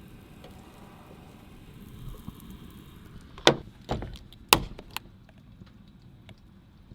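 Four sharp knocks or clacks about half a second apart, the first and third the loudest, over a low steady background.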